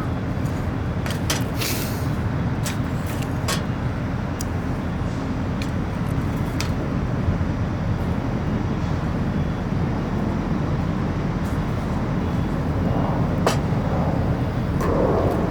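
Steady low rumble, with scattered sharp crackles and clicks over it, such as a wood campfire makes.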